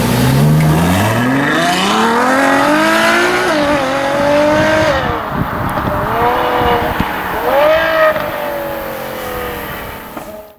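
A car engine accelerating hard: its note climbs steeply and drops back a few times as it shifts up through the gears.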